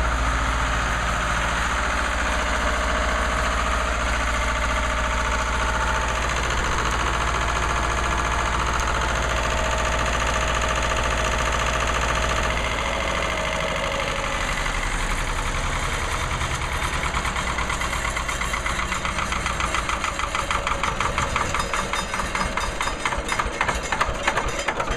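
Generator engine running steadily, then shut down about halfway through: it winds down, its firing strokes slowing into separate knocking beats until it stops at the end.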